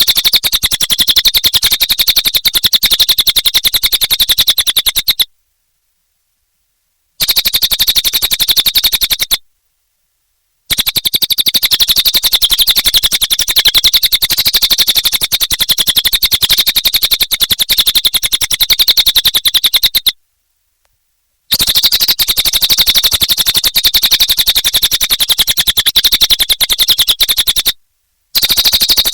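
Cililin bird singing a long, very fast, even rattling trill, high-pitched, in several bursts lasting from about two to ten seconds each. The bursts are separated by short gaps of complete silence.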